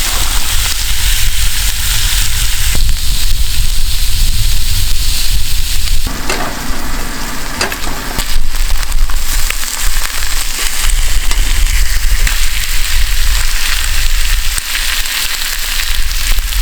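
Food sizzling in a pan over a wood fire: a dense, steady hiss full of fine pops and crackles, with a steady low rumble underneath.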